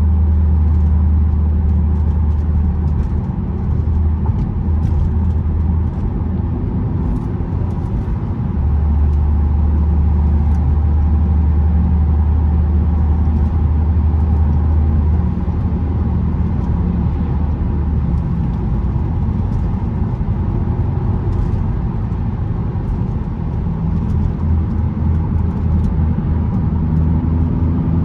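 Audi S3 8P's turbocharged 2.0-litre four-cylinder engine running under way, a steady low drone over road noise that eases off a few seconds in and again about halfway through before building back.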